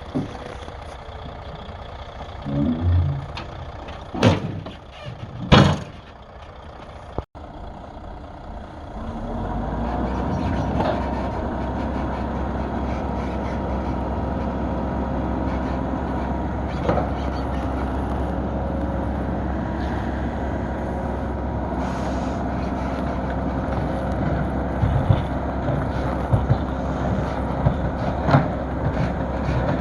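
A few sharp knocks, then from about a third of the way in a heavy diesel engine running steadily with a deep low rumble, its level building over the first couple of seconds.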